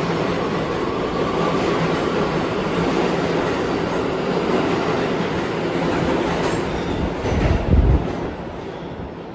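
New York City subway train running along the station platform, a steady loud rush of wheels on rail. A heavy low thump comes near the end, then the sound fades as the train draws away.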